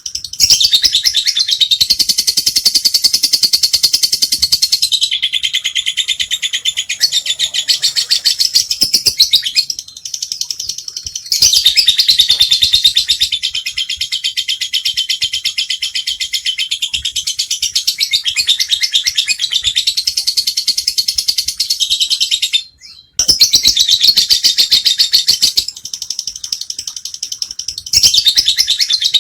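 Lovebird singing 'ngekek': a long, very rapid, high-pitched chattering trill that runs on and on, broken only by two short pauses.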